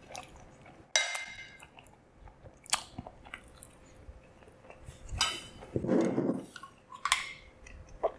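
Close-miked chewing of a mouthful of meatballs and mashed potatoes, with several sharp clinks and scrapes of a metal spoon and fork on the plate.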